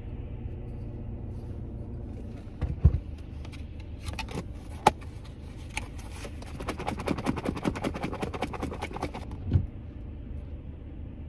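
Steady low hum of a car idling with the heater running, heard from inside the cabin. Over it, a plastic takeout container and utensils are handled: a couple of sharp snaps, then a long run of small plastic clicks and rustling, and a thump near the end.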